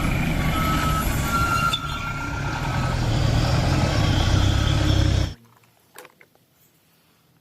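Truck engine sound, a rough steady rumble, cutting off abruptly about five seconds in.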